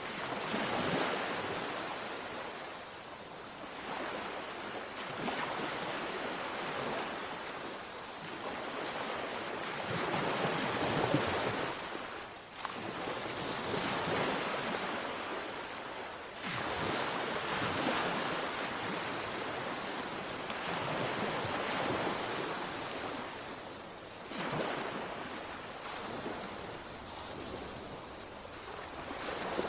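Sea waves washing onto a shore, swelling and easing every few seconds, with wind noise on the microphone.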